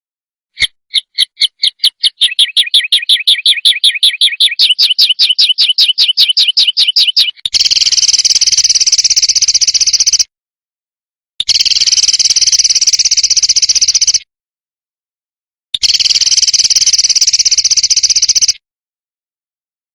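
Recorded songbird song used as masteran: a run of rapid, evenly repeated chirps that quickens for about seven seconds. Then come three harsh, buzzing rattle phrases, each about three seconds long, with clean silent gaps between them.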